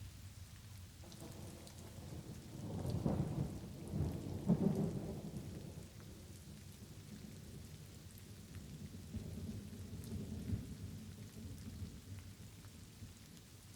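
Light rain falling steadily with rolling thunder. A rumble swells about a second in and peaks twice, around three and five seconds in, then fades, and a softer rumble follows near ten seconds.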